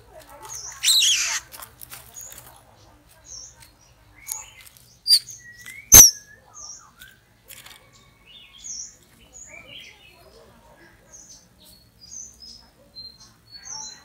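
White-rumped shamas calling at a cage trap: a loud harsh call about a second in, then short high chirps repeated again and again. Two sharp clicks come around five and six seconds in, the second the loudest sound.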